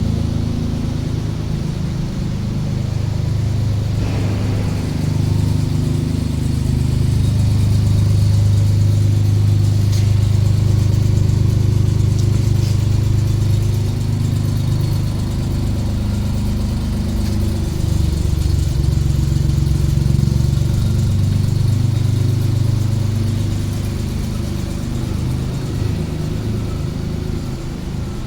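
A Suzuki Carry DB52T kei truck's small three-cylinder engine running steadily. Its low hum rises and falls in pitch and level as engine speed changes.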